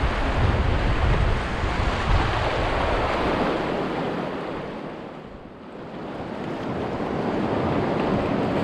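Rushing river water with wind buffeting the microphone. It dips briefly about five seconds in, then builds again.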